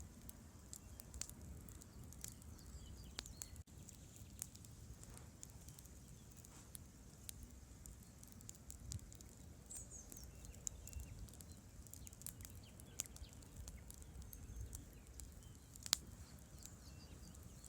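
Campfire crackling: wood snapping and popping in irregular small clicks, with one louder crack near the end, over a steady low rush of the river.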